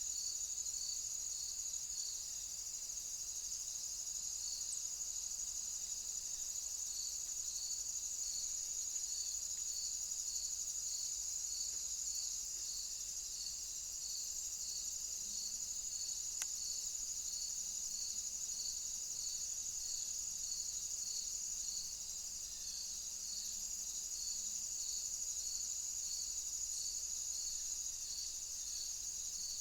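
Summer insect chorus: a steady high-pitched buzz with a cricket chirping evenly, a bit more than once a second.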